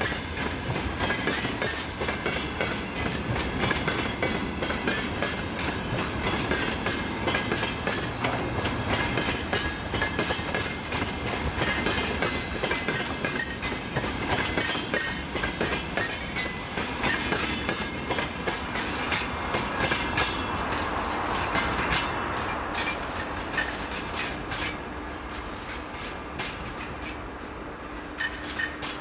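A long freight train's wagons rolling past at speed, the wheels clacking rapidly and steadily over the rail joints. It grows quieter over the last few seconds as the end of the train goes by.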